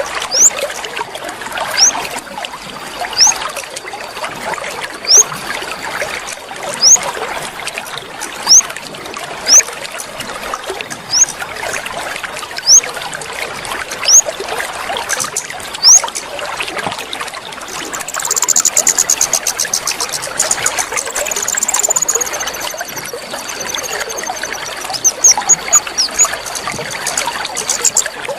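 Water trickling steadily, with a bird calling over it: short rising whistled notes every second or two, and a fast, falling, chattering trill near the middle. A water-therapy sound used to set a silent caged songbird singing.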